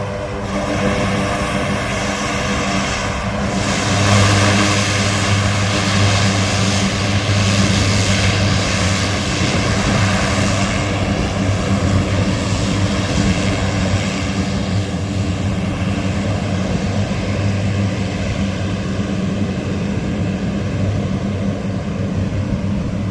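Propeller-driven aircraft engines running with a steady, loud drone and a rushing hiss, swelling about four seconds in and easing off slightly toward the end.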